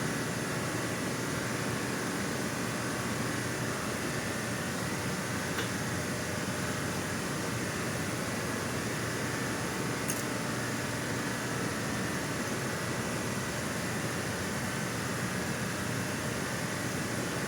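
Brake lathe running steadily while skimming a brake rotor, an even mechanical hum and hiss with a faint high tone, and a couple of faint ticks.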